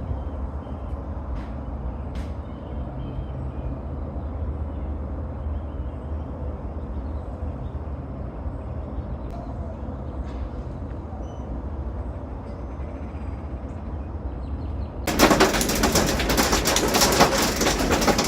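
Outdoor ambience: a steady low rumble with faint bird chirps and a few small clicks, then a loud rushing noise breaks in near the end.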